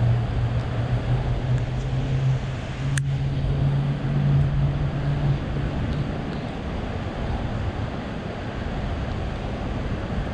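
City street traffic ambience: a steady wash of traffic noise, with a vehicle engine's low hum that rises slightly in pitch and drops away about six seconds in. A single sharp click comes about three seconds in.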